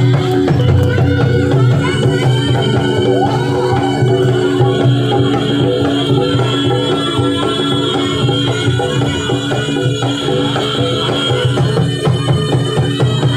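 Javanese traditional dance music: hand drumming over steady sustained tones, playing continuously.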